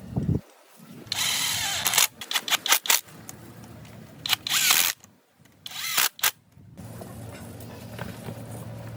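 A workshop power tool run in several short, loud bursts, with sharp clicks between them, over a low steady hum.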